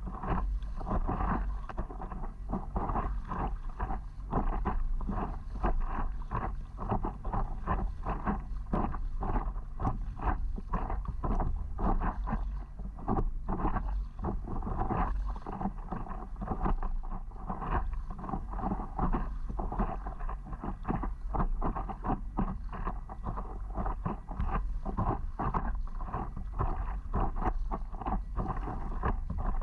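Water splashing and lapping against a stand-up paddleboard, under a steady low rumble of wind on the microphone.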